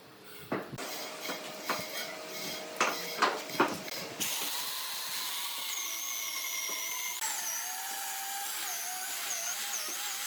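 A few knocks of wood being handled, then about four seconds in a high-speed power tool starts and runs steadily with a high whine that wavers slightly in pitch.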